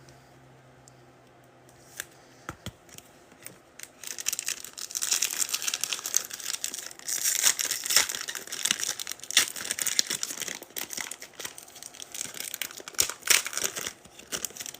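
A trading-card pack wrapper being torn open and crinkled by hand. A few faint clicks come first, then about ten seconds of dense crackling and tearing with many sharp clicks.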